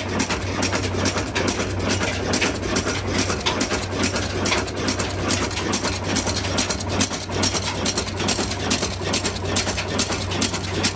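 Old Ruston stationary engine running steadily, with a rapid, even knock of its firing over a constant low hum.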